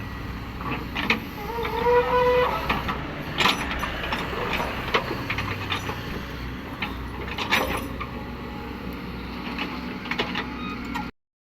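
Cat 307E2 mini excavator working: its diesel engine a steady low drone, with repeated metal clanks and knocks and a short rising whine about two seconds in. The sound cuts off abruptly near the end.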